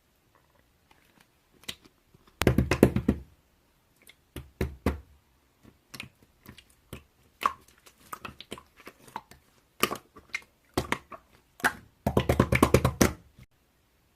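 Slime being squished and pressed by hand, giving sticky clicks and pops, with two runs of rapid crackling clicks: one about two and a half seconds in and another near the end.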